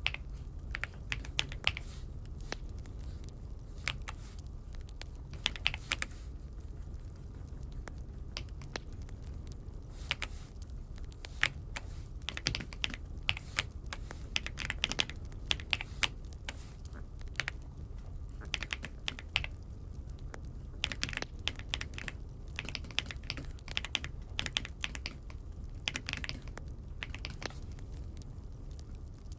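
Typing on an Aula F75 mechanical keyboard: irregular runs of keystrokes with short pauses between them, over a steady low hum.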